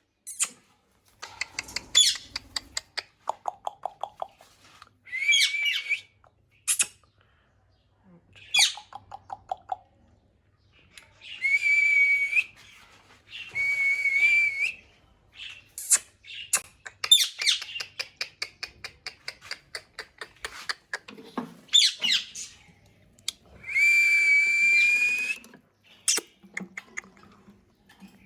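Pet parrot calling in its natural voice: a run of long held whistles, fast rattling clicks and short sharp chirps, with brief gaps between them.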